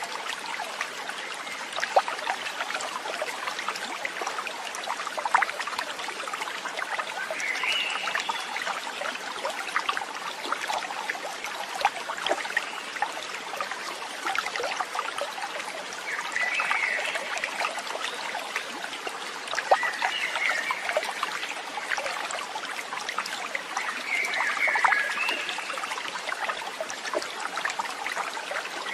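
Water trickling and burbling steadily, like a small stream, with a few short chirps heard now and then.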